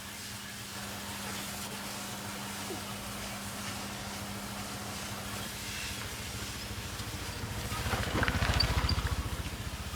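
A motor running steadily with a low hum, swelling louder for about two seconds near the end in a rapid, even pulsing.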